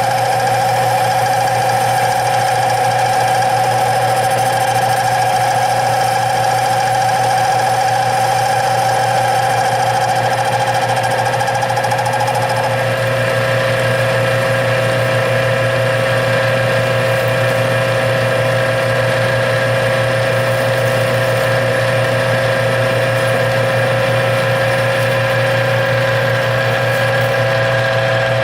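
Metal lathe running steadily through a turning pass on aluminum stock, a hum with several steady tones. A higher tone stops about halfway through while the machine keeps running.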